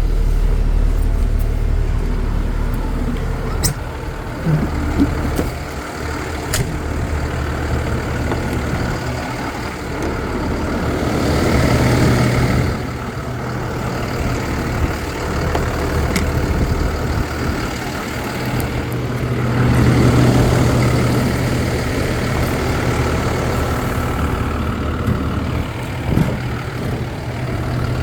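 Peterbilt box truck's diesel engine idling steadily, swelling louder twice, about twelve and twenty seconds in. A couple of sharp clicks sound a few seconds in.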